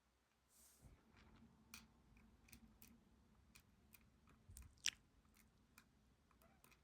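Faint, scattered small clicks and ticks of steel tweezers working tiny lock pins and springs out of a disassembled pin-tumbler lock's pin chambers, with one slightly louder click just before the five-second mark.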